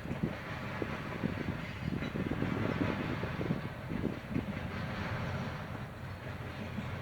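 A freight train's cars rolling past, with steady wheel-on-rail noise and frequent irregular clanks and knocks from the wheels and couplers.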